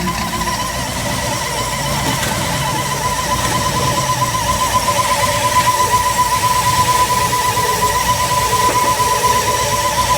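Ford F250's carbureted engine running at a high fast idle with a steady high whine over it, getting slightly louder over the stretch. The carburetor is stuck at high speed; the owner blames the choke sticking and suspects it is running rich.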